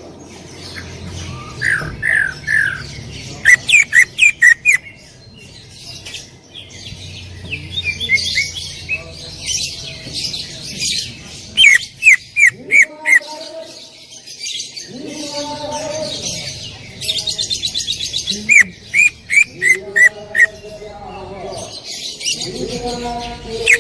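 Cucak ijo (green leafbird) singing loudly. Its sharp, piercing notes come in quick runs of three to six, mixed with chattering, and a fast high trill comes about two-thirds of the way through.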